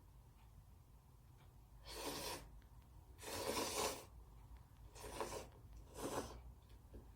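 Plastic food wrapper being torn and pulled open in four rustling tears, the second the longest and loudest.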